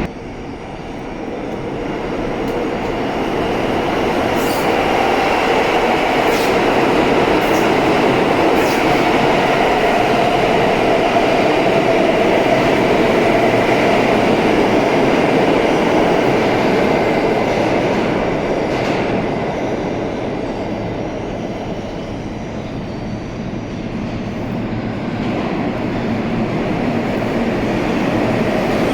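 New York City subway train of R160-series cars running through the station: a steady rumble of wheels on rail with occasional sharp clicks, building over the first few seconds, easing about two-thirds through and swelling again near the end.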